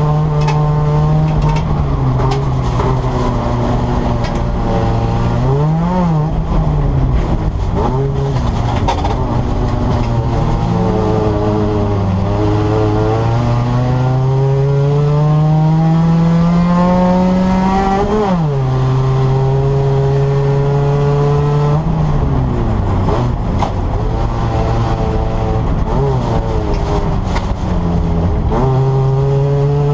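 Nissan Micra's engine heard from inside the cabin, driven hard: the revs climb slowly for several seconds, then drop sharply as the driver lifts off or changes gear, with a few quick up-and-down rev flares in between.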